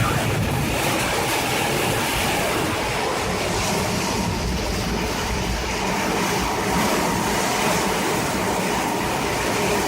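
Tornado winds roaring steadily, a continuous train-like rumble and rush with no let-up.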